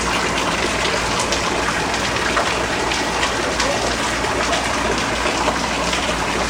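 Heavy rain falling steadily, a continuous hiss with many small drop ticks, and water gushing.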